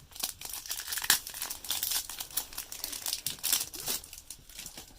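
Foil booster pack of Pokémon trading cards crinkling as it is opened and handled: a dense run of crackles.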